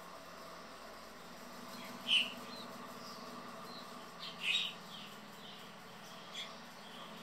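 Birds chirping a few times in short calls, the loudest about two seconds in and again about four and a half seconds in, over a steady low hum.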